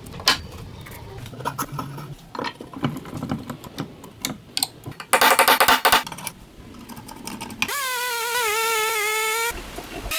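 Metal parts clicking and knocking as they are handled, with a burst of rapid rattling clicks about halfway through. Then a small electric power tool whirs up and runs with a wavering whine for about two seconds.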